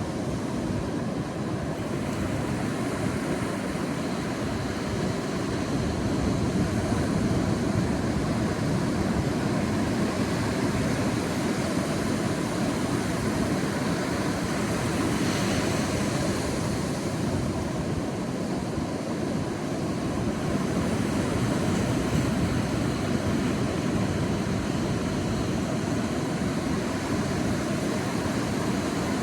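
Sea waves washing onto a beach: a steady rush of surf that swells gently as waves break, with one brighter, hissing swell about halfway through.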